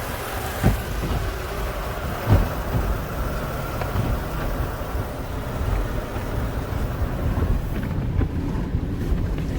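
Car wash pre-soak and rinse spray hitting the car's body, heard from inside the cabin: a steady hiss over a low rumble, with two soft thumps near the start.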